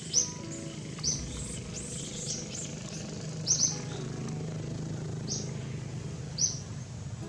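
Small birds chirping: short, sharp, high chirps at irregular intervals, a close pair about halfway through, over a steady low rumble.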